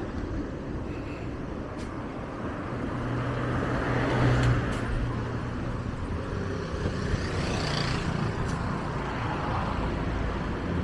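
Road traffic: a motor vehicle's engine running close by over a steady traffic rumble, loudest a few seconds in, with a few light clicks.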